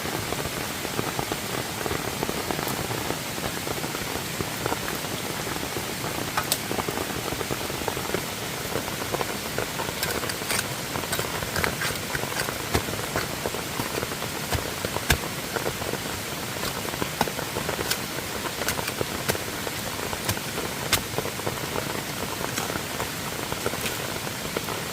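Steady rushing noise of water, as from heavy rain and a fast-flowing forest stream, with scattered sharp taps and clicks throughout.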